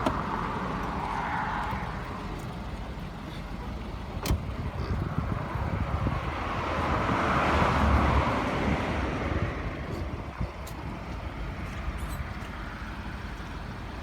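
Road traffic: the hiss of a car passing on the road swells and fades, loudest about halfway through, with one sharp click about four seconds in.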